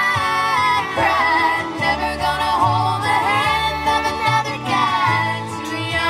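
A female voice singing a slow country ballad over acoustic backing music.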